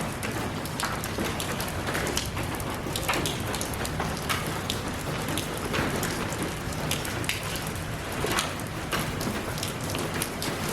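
Steady rain falling, an even hiss with many individual drops landing close by as irregular sharp taps.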